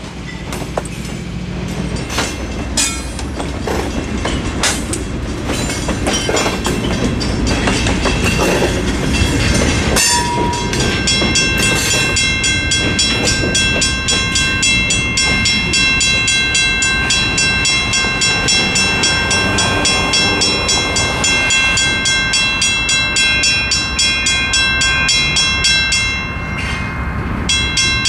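GE B39-8 diesel locomotives rumbling over a road crossing, wheels knocking over the rail joints. After about ten seconds the train has cleared and the Western Cullen Hayes mechanical crossing bell rings on steadily, about two even strokes a second, with a short break near the end.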